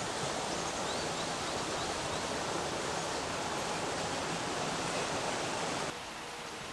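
Steady rush of flowing river water, which drops sharply in level near the end. A few faint high chirps sound about a second in.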